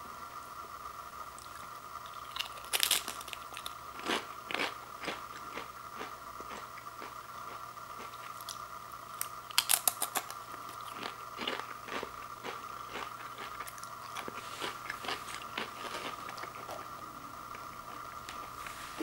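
Someone biting into and chewing a Pringles potato crisp, with irregular crunches that come loudest in a quick run about halfway through. A steady high hum runs underneath.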